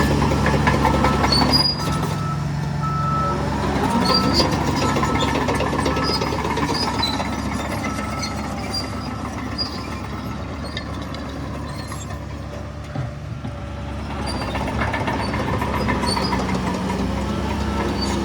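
Heavy diesel machinery, bulldozer and dump truck, running under load, with a reversing alarm beeping repeatedly for several seconds near the start. Short high metallic squeaks come through now and then, and the engine drops back around two-thirds of the way in, then builds again.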